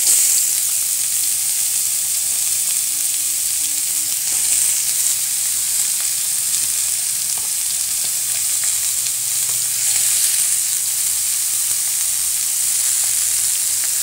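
Shredded young papaya sizzling in hot oil in a wok: a steady frying hiss that jumps up sharply as the papaya goes into the pan at the start.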